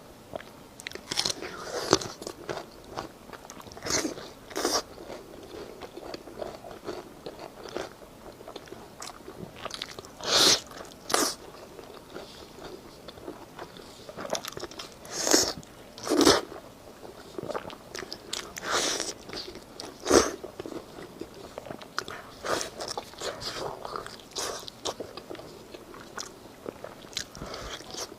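Close-miked crunchy eating: a person biting and chewing crisp food. There are a few loud crunching bites scattered through it, with quieter crackling chews in between.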